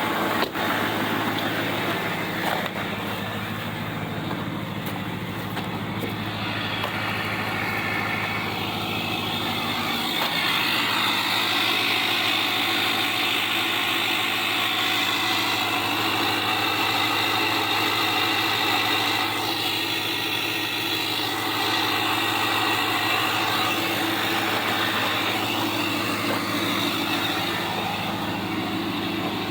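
2007 Chevy Silverado's LBZ Duramax 6.6-litre V8 turbodiesel idling steadily just after a cold start at about 5 °F, heard from the cab through a cracked window. Its note changes slightly about ten seconds in.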